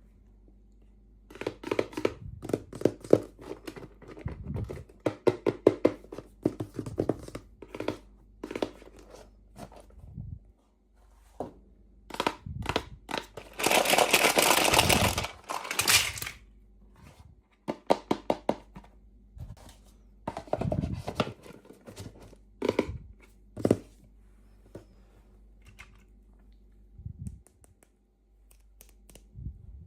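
Packaging being opened by hand: crinkling and tearing of a wrapper, with many small clicks and knocks. About halfway through there is a longer tearing sound lasting a few seconds.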